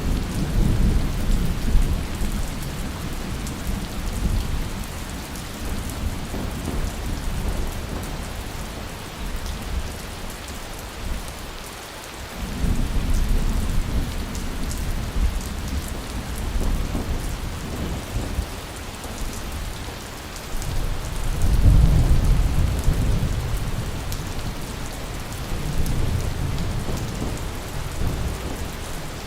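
Heavy rain falling steadily, with low rolling thunder that swells and fades several times: near the start, about halfway through and again about two-thirds of the way in.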